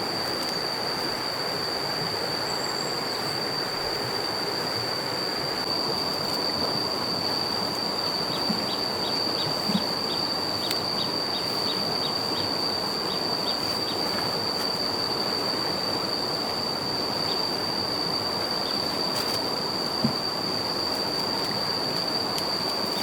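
Steady rushing noise, like flowing floodwater, with a continuous thin high whine over it and a few soft knocks.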